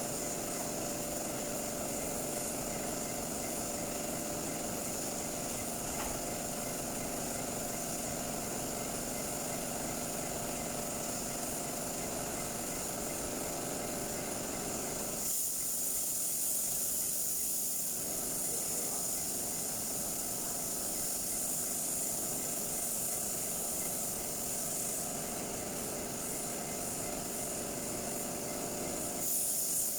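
Steady hiss of compressed air from a body-shop air tool, with a faint steady hum under it; about halfway through the hiss turns brighter and thinner for a couple of seconds.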